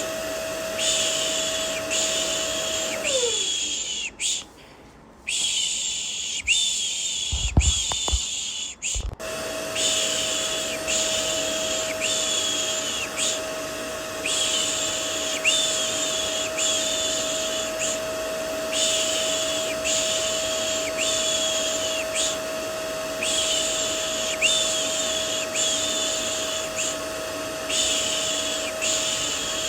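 Vacuum cleaner motor running with a steady hum under rhythmic 'shh' shushing that pulses a little more than once a second, as white noise for soothing a baby. About three seconds in the motor winds down and the sound drops out. A few knocks follow, and the vacuum and shushing come back on abruptly about nine seconds in.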